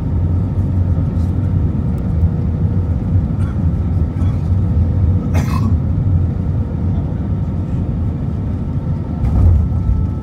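Cabin noise inside an Airbus A320 with IAE V2500 engines: a steady low rumble with faint steady engine tones above it, and a brief sharp knock or click about five and a half seconds in.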